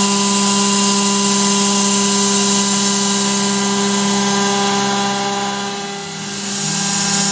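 Carvera Air desktop CNC mill's spindle whining steadily through a very shallow milling pass, over the hiss of the air assist blowing chips away. About six seconds in the sound briefly dips and its pitch shifts, then steadies again.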